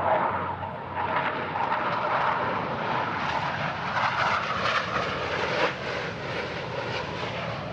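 Jet engine noise from US Navy Blue Angels F/A-18s in flight: a steady rushing sound that swells and eases.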